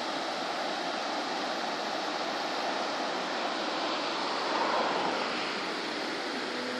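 Steady rush of the Olona river's flowing water, swelling slightly about four and a half seconds in.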